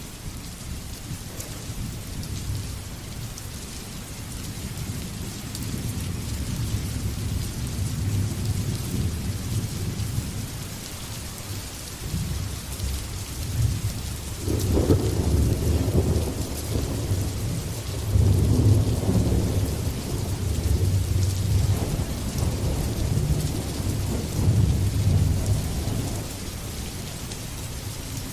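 Steady heavy rain with rolling thunder. The thunder rumbles low and builds about halfway through, with its loudest peals around the middle and again a few seconds later.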